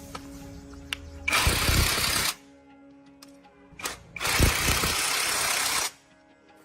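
Two loud bursts of hissing air, the first about a second long and the second nearly two, over soft background music.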